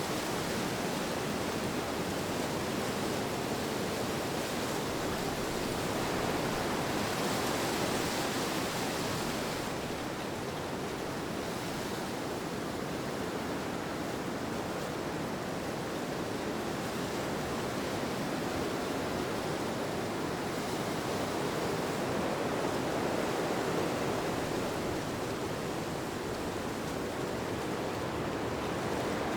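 Steady rushing wind, an even hiss-like noise that grows a little brighter about seven seconds in and eases back about ten seconds in.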